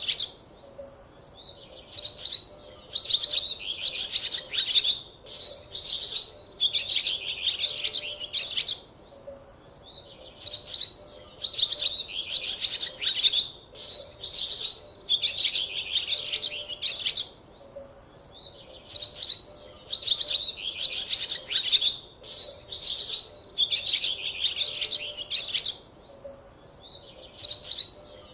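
Small birds chirping and twittering in quick high bursts of a second or two, broken by short pauses.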